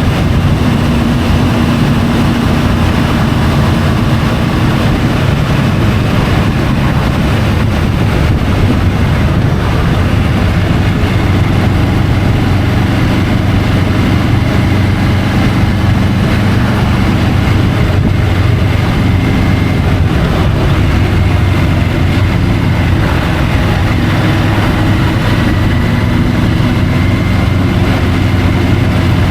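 Triumph Tiger 850 Sport's 888 cc three-cylinder engine running at steady revs, picked up by a camera mounted on the motorcycle, under a steady rushing noise.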